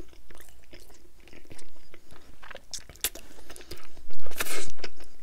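Close-miked chewing of sauced barbecued meat: wet mouth smacks and sharp little clicks, with a louder, longer sticky smack about four seconds in.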